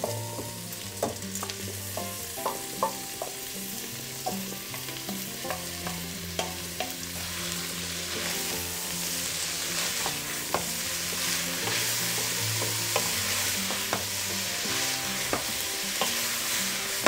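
Mixed greens and rice sizzling in hot oil in a stainless steel pot, stirred with a wooden spatula that clicks and knocks against the pot. The sizzle grows louder about halfway through.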